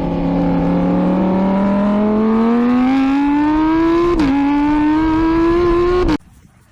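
Car engine accelerating hard, its pitch climbing steadily with a brief drop about four seconds in like a gear change, then cutting off suddenly.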